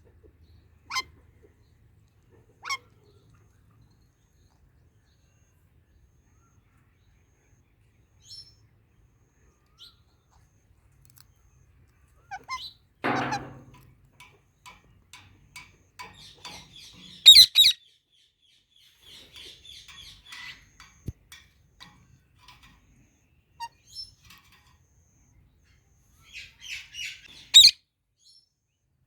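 Indian ringneck parrots calling on and off: short chirps, soft chattering, and a few sharp, loud screeches. The loudest screech comes about halfway through and another near the end.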